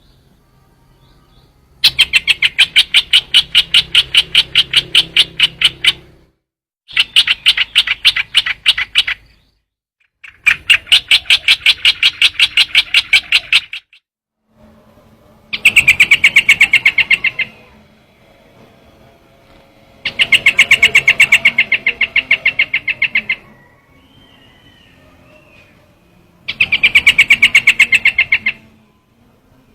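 Recorded call of the bird that Vietnamese bird trappers call trao trảo, played as a lure: six loud bouts of a fast, rattling trill of quickly repeated notes, each bout lasting two to four seconds, with short pauses between.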